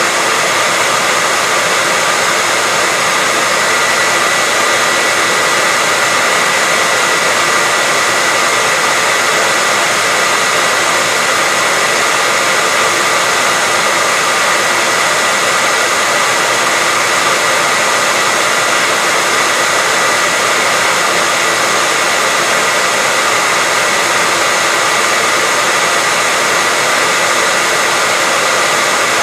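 Hair dryer running continuously: a steady, even rush of air with a high motor whine, unchanging throughout.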